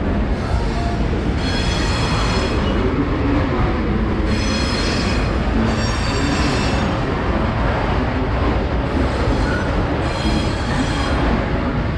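Passenger train running with a steady rumble, its wheels giving a high-pitched squeal that comes and goes several times.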